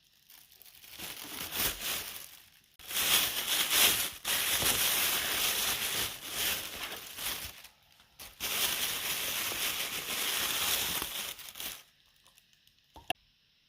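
Crinkling and rustling handling noise in three long stretches with short pauses between them, then a single sharp click near the end.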